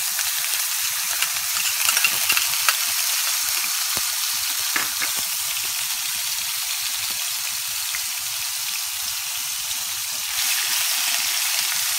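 Ground onion paste frying in hot oil in a pan: a steady, loud sizzle, with a few sharp clicks in the first few seconds. The sizzle gets a little louder about ten seconds in.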